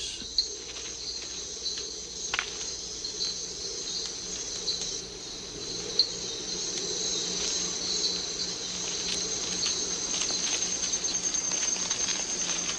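Rainforest insects trilling in a steady high chorus, with a pulsing trill growing stronger in the second half. A few soft clicks.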